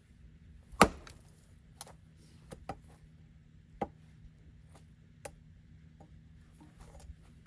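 An axe strikes a log being split for firewood, one sharp loud chop about a second in. Lighter knocks and clacks of wood follow, scattered through the rest.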